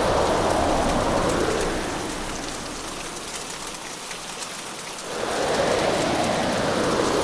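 Hurricane rainstorm: heavy rain pouring steadily with fine pattering drops. The fuller, lower rush of the storm eases off for a few seconds in the middle, then surges back.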